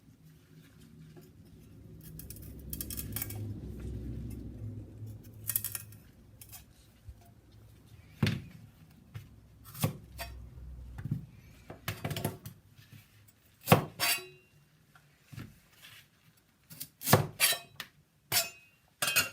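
Kitchen clatter as vegetables and utensils are handled: a low rumble early on, then irregular sharp knocks and clinks of dishes, cutlery and other kitchen ware.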